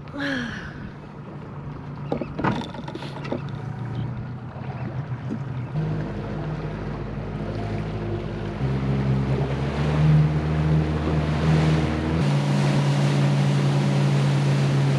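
A small boat's outboard motor throttling up from about six seconds in, its note shifting in steps as the boat accelerates to climb onto plane. Rushing water and wind grow louder with it.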